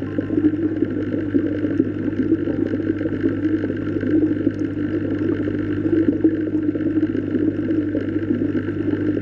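Steady underwater water sound, a constant churning wash with a low, even hum beneath it.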